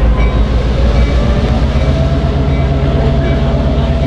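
Train running along the track: a loud, steady low rumble with a faint steady tone above it.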